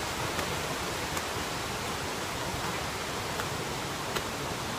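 Steady rushing of a waterfall, with a few faint taps.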